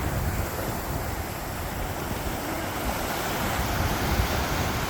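Sea surf washing onto a sandy beach, a steady rush, with wind buffeting the microphone.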